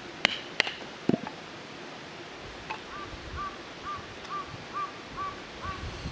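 Three sharp clicks within the first second, then a bird repeating a short call note about twice a second, eight times or so.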